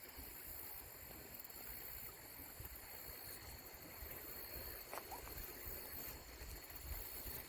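Faint outdoor noise of creek water, with an uneven low rumble and a light click about five seconds in.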